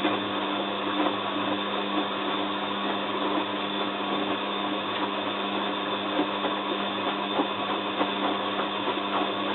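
Bosch WFF2000 front-loading washing machine running through the first stage of its Easy Care 50 wash, before the heater comes on. It gives a steady hum with faint clicks.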